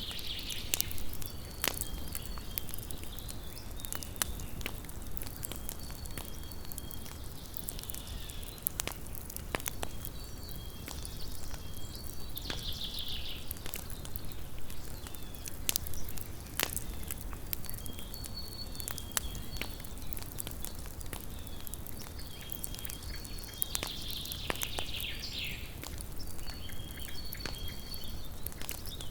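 Small wood campfire crackling, with irregular sharp pops and snaps over a low steady hiss.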